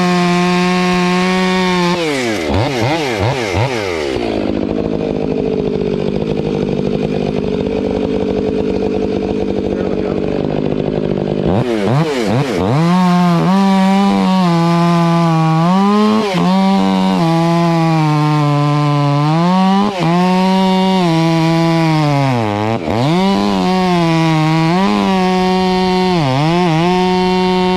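Two-stroke chainsaw cutting maple wood at high revs. About two seconds in, the engine note falls and runs lower and duller for several seconds, then rises again. After that the pitch dips repeatedly as the chain bites into the wood.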